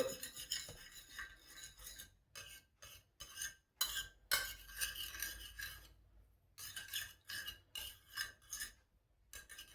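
A spoon stirring chicken breast strips in teriyaki and soy sauce: irregular wet scraping strokes against the dish, with short pauses between them.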